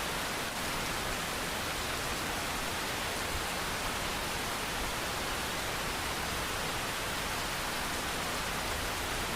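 Steady rain falling: an even, constant hiss of many drops with no single drop standing out.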